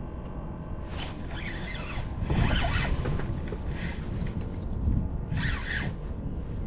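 A fishing reel cranked in several short rasping spells as a hooked fish is reeled in, over a steady rumble of wind on the microphone.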